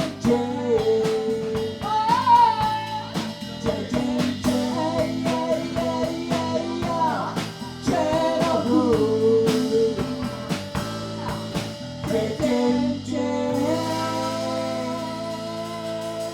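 Live blues band playing: a singer over electric guitar and drum kit, with a long held sung note near the end.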